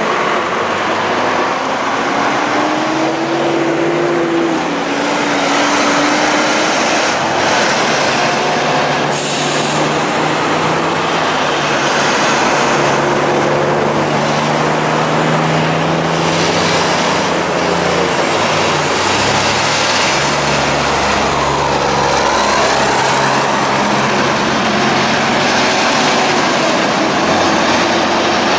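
Heavy haulage trucks driving past with oversize loads: diesel engines running under load over steady tyre and road noise, the engine notes rising and stepping down in pitch.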